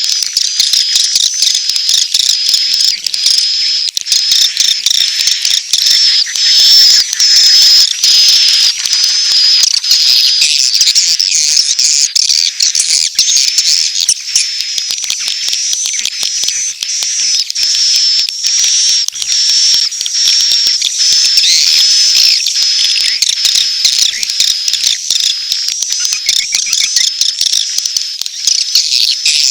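Swiftlet colony calls from a swiftlet-farming lure recording. It is a dense, continuous high chattering of trills, chirps and rapid clicks, mixing courtship calls with chick begging calls.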